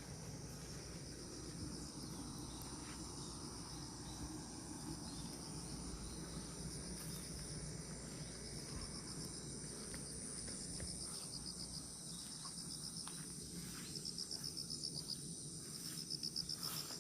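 Crickets and other insects chirping steadily in high, continuous bands, with a louder rapid pulsing trill starting about three seconds before the end, over a low steady rumble.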